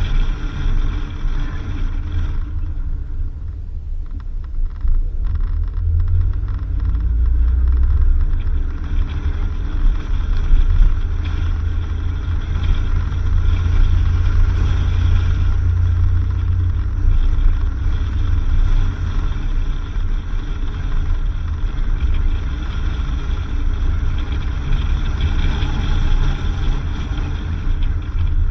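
A car driving along a dirt road: a steady low rumble of engine and tyres, with no break.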